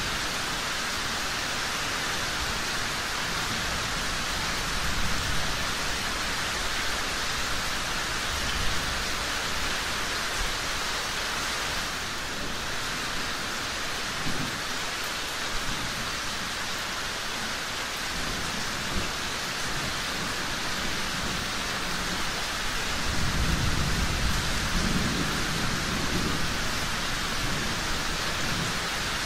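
Steady, heavy rain hiss with low rumbling swells, the strongest from about 23 to 27 seconds in, and a few brief sharp pops.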